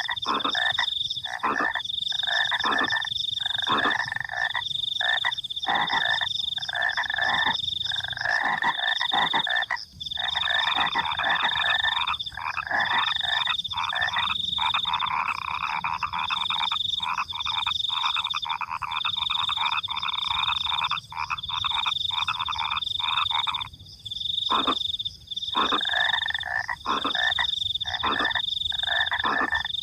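A night chorus of frogs giving rapid, pulsed croaking calls almost without a break, pausing briefly a few times. Crickets keep up a steady high chirping trill underneath.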